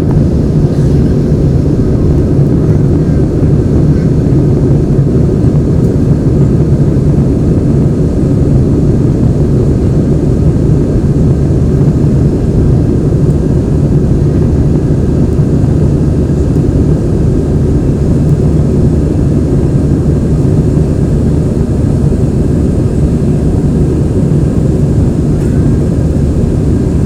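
Airbus A320 cabin noise in flight: a loud, steady drone of the jet engines and airflow over the fuselage, heavy in the low end, with no change throughout.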